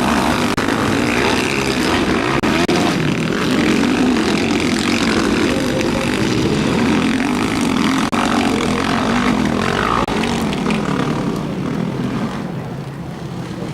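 Several motocross motorcycles racing on a dirt track, engines revving up and down through the gears as they pass, growing somewhat quieter near the end.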